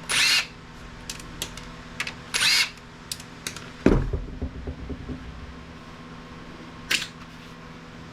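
Plastic router housing being pulled apart by hand: two short squeaky creaks of plastic parts, scattered clicks, and a loud thump about four seconds in.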